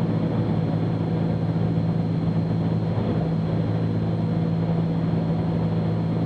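Cessna 310Q's twin piston engines droning steadily, heard inside the cockpit on final approach with the gear down.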